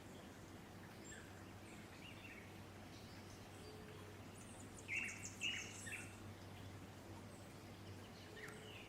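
Wild birds calling faintly: scattered short chirps and quick falling calls, with two louder calls about five seconds in, over a faint steady low hum.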